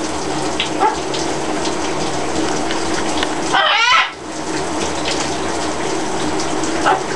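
Shower water spraying steadily, and about halfway through a parrot gives a short call with a wavering pitch, lasting about half a second.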